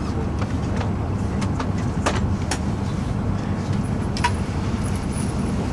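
Steady low rumble inside an E5 series Shinkansen car as the train runs, with a few faint clicks and ticks.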